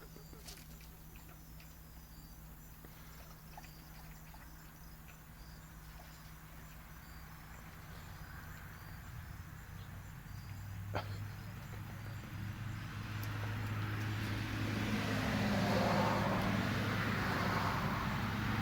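Faint crickets chirring, then a car engine with a steady low hum growing steadily louder over the second half as the vehicle approaches, with a single knock about eleven seconds in.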